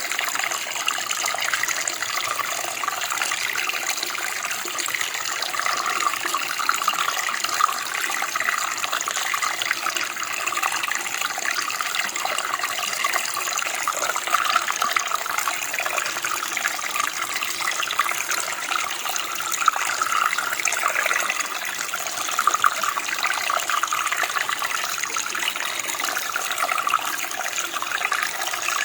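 Running water, a steady stream or creek flowing and splashing over rocks.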